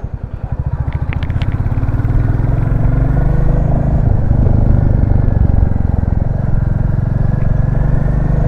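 Royal Enfield Classic 350's single-cylinder engine thumping at low revs, then picking up and getting louder from about two seconds in as the bike accelerates. A few light clicks about a second in.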